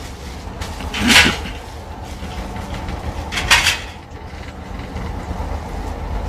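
Two loud, short clattering impacts about two and a half seconds apart, over a steady low rumble.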